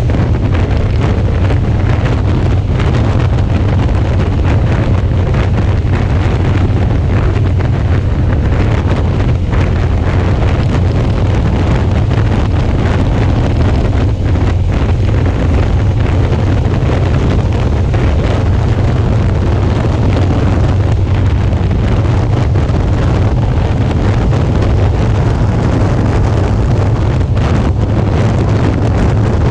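Wind rushing over an action camera's microphone on a moving Suzuki V-Strom 650 motorcycle, with the bike's V-twin engine running steadily underneath at a constant cruising speed. The sound stays loud and even throughout, heaviest in a low rumble.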